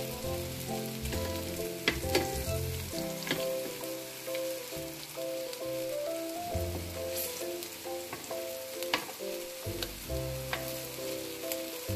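Tofu slabs sizzling steadily in hot oil in a frying pan. Metal tongs click against the pan now and then as the pieces are turned over.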